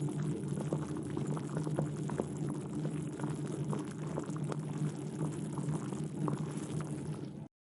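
A half-covered saucepan of water and dried potato slices boiling steadily, with many small bubbling pops. It cuts off suddenly near the end.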